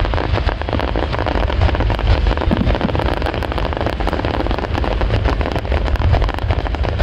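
Fireworks display: a dense, continuous crackle of many small bursts going off together over a steady low rumble.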